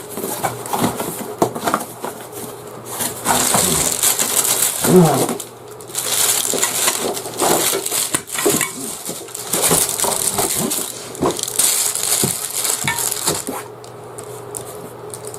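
Crinkling and rustling of packaging handled by hand, in long irregular stretches with scattered clicks and knocks, as an item is unwrapped. It eases off near the end.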